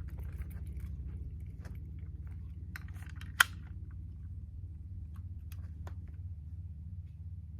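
Small clicks and rattles of handling, with one sharp click about three and a half seconds in, over a steady low rumble.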